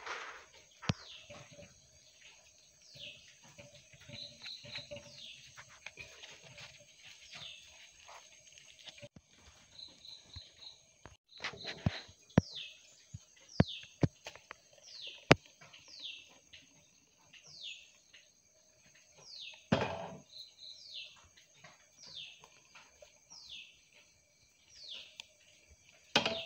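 A bird calling over and over in short falling chirps, about one every second and a half, with a few quick trills, over a steady high drone of crickets. Sharp clicks and taps from hands folding and pinning wet banana leaves over a steel bowl, with one duller thump about twenty seconds in.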